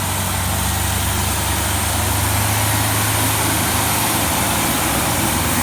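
Heavy truck engine running steadily with a deep, even engine note.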